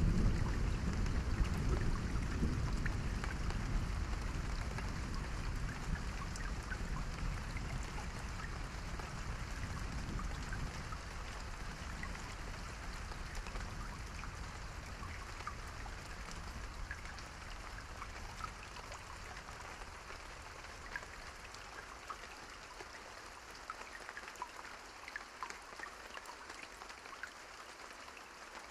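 Steady rain falling, with many individual drops ticking, under a low rumble that gradually fades away over the first twenty seconds or so.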